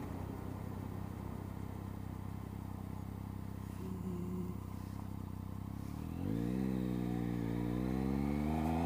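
Triumph Speed Triple's three-cylinder engine running steadily at low revs, then accelerating from about six seconds in, the pitch rising with a brief dip at a gear change before it climbs again.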